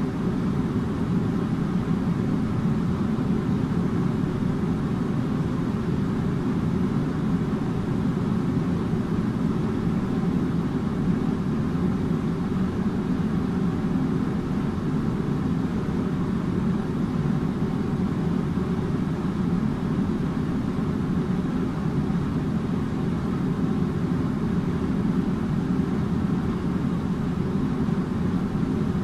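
Air conditioner running steadily, a constant low rushing hum with no change.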